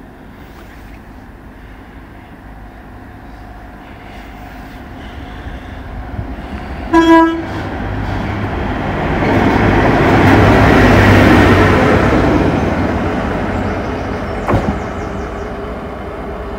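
A train gives one short horn toot, then passes: its rumble builds to a peak a few seconds later and fades away, with a sharp click near the end.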